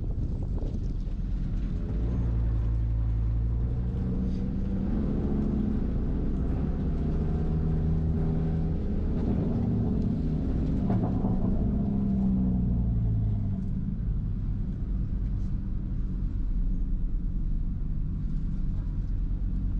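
Audi RS3's turbocharged five-cylinder engine running under way, its pitch rising and falling as it speeds up and eases off.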